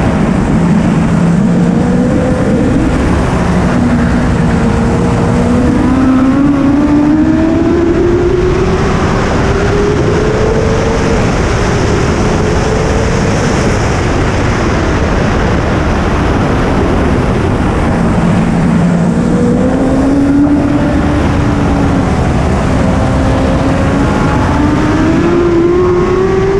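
BMW S1000RR inline-four superbike engine at racing speed under a heavy rush of wind noise. Its pitch climbs slowly for about ten seconds on a long pull, drops back in the middle, then rises again in steps through the gears near the end.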